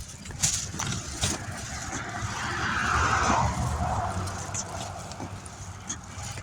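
A car passing on the road, its tyre and engine noise swelling to a peak about halfway through and then fading, over steady wind rumble on the microphone of a moving bicycle. A few sharp clicks or rattles come in the first second or so.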